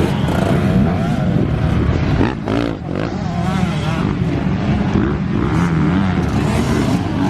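Motocross bike engine revving hard on the track, its pitch rising and falling with the throttle and gear changes, easing off briefly about two and a half seconds in before pulling again.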